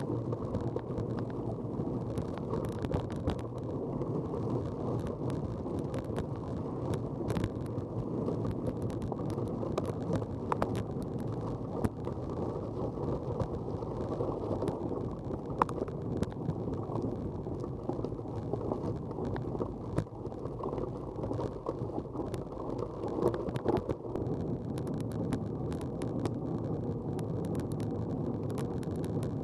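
Steady, muffled wind and riding noise on a camera mounted to a moving vehicle, with scattered small clicks and rattles.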